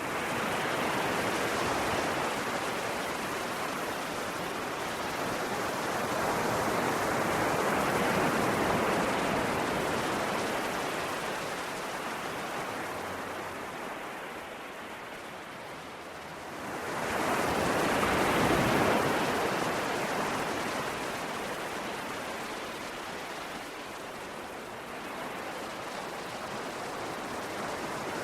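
Ocean waves breaking on a shore, a steady wash that swells and ebbs in slow surges, with one stronger wave rising sharply a little past the middle.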